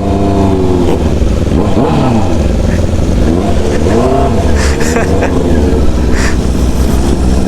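Honda CB650R's inline-four engine through a full-system exhaust, the revs rising and falling several times as the rider opens and closes the throttle, then holding steadier near the end.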